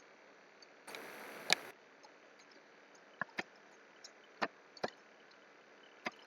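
About six sharp, isolated clicks of a computer mouse at irregular intervals, two of them in quick succession, over a faint steady hiss. A brief rush of hiss comes about a second in.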